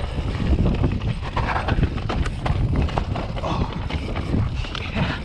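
A 2020 Transition Patrol mountain bike rolling over a rough dirt trail: a run of rattles and knocks from the bike over a heavy low rumble.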